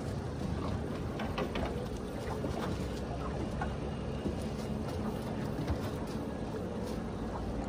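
Boat motor running steadily while slowly trolling, with wind and water noise around it and a few small clicks.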